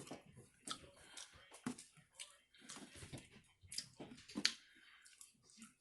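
Quiet eating: faint, scattered short clicks and smacks of chewing, a few louder ones in the second half.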